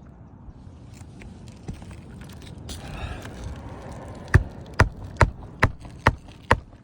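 Rustling and scraping of asphalt roof shingles being handled, then six sharp hammer strikes at an even pace of a bit over two a second, nailing down a shingle in a test repair.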